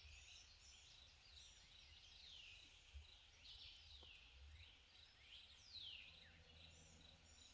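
Faint songbirds calling: a run of quick, falling whistled notes, over a low steady rumble, with a soft bump about three seconds in.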